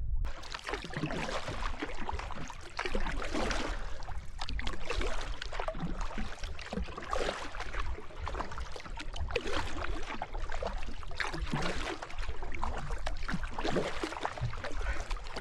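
Water splashing and sloshing close by around a kayak in a shallow creek, in irregular bursts with no steady rhythm.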